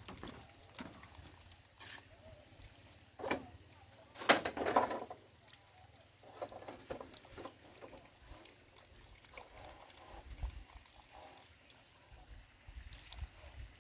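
Water being poured and splashing, loudest in a short burst about four seconds in, with quieter scattered splashes and trickling after.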